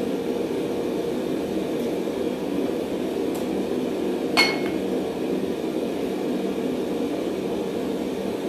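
A steady low hum of workshop equipment, with a single ringing clink of steel tools knocked together about four seconds in.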